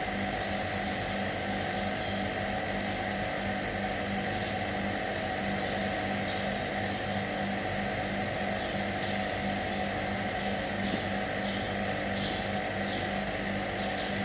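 A motor running steadily with a constant hum, and a few faint short ticks on top.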